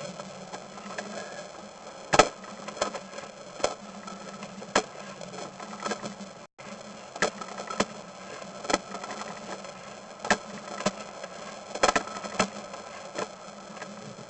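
Sewer inspection camera equipment: a steady electrical buzz with irregular sharp clicks and knocks, as the camera and its push cable are worked along the pipe.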